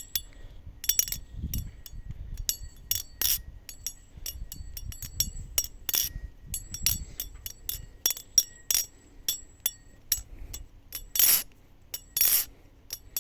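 Stainless steel balisong (butterfly knife) being flipped: its handles and blade clack together in many quick, irregular metallic clicks and clinks, several with a short ring after them.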